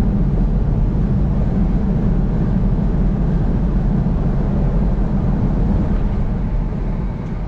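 Steady rumble of a vehicle driving on the interstate, tyre and engine noise, easing off slightly near the end.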